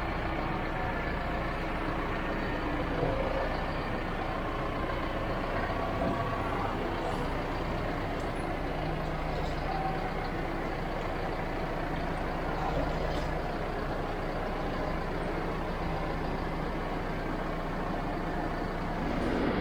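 Tractor engine running steadily while it drives a hydraulic rotary broom, the brushes spinning and sweeping the ground.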